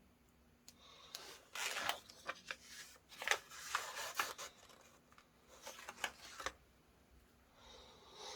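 Irregular rustling and scraping strokes, as of paper and study materials being handled, some short and sharp, clustered between about one and six and a half seconds in and again near the end.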